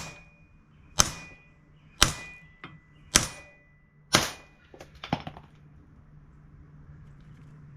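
Hammer blows on a GM A-body door hinge pin, knocking it partway out: about five sharp strikes roughly a second apart, each with a brief metallic ring. A few lighter clicks follow about five seconds in.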